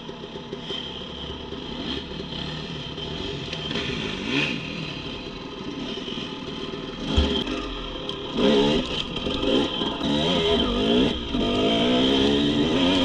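Dirt bike engine revving, its pitch rising and falling repeatedly under throttle and getting louder about eight seconds in. There is a single thump about seven seconds in.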